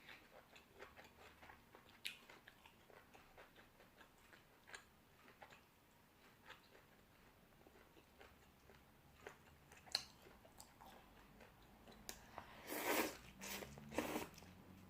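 Close-up chewing and crunching of crisp raw vegetables with a noodle-soup meal: many small, faint crunches and clicks, with a few louder, noisier bursts near the end.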